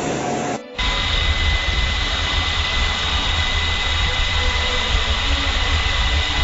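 Helicopter turbine engine and rotor running steadily: a high whine over a deep rumble. The sound drops out briefly less than a second in and then continues unchanged.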